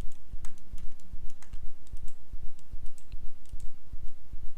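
Computer keyboard and mouse clicks, irregular and sharp, from hotkeys and selections while modeling in Blender. Underneath runs a steady low thudding that repeats several times a second.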